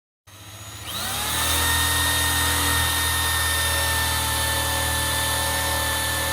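Power tool fitted with a wire wheel starting up, its pitch rising for about a second, then running steadily at full speed with a high whine.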